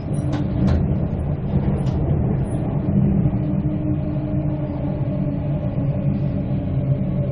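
Running noise of a Queensland Rail Tilt Train heard from inside the carriage while it moves: a steady low rumble of the wheels on the rails with a faint steady hum over it. A couple of sharp clicks come in the first second.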